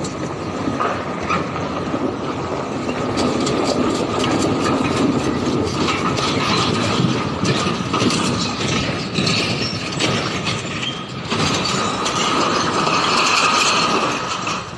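Heavy machinery running loudly with a dense, continuous clattering and rattling.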